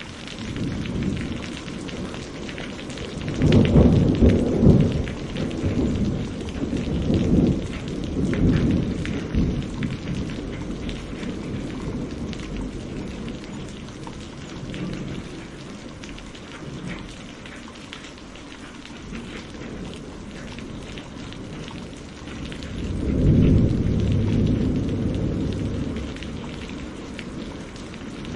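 Steady rain with rolling thunder. One long rumble swells a few seconds in and dies away over several seconds, and a second rumble rises about 23 seconds in.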